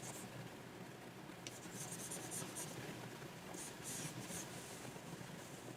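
Pen nib on a Wacom pen tablet scratching across the tablet surface in quick groups of short strokes, with a light tap about a second and a half in.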